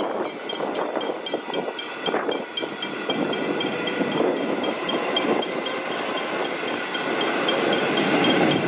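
An electric suburban train running past over a road level crossing, its wheels clattering on the rails, while the crossing's warning bell rings in rapid, even strokes, about four a second.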